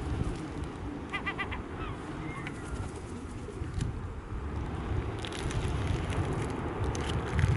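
Wind rumbling on the microphone over surf on a shingle beach. About a second in, a bird gives a quick run of four or five calls. From about five seconds in, a crisp rattle of pebbles grows louder.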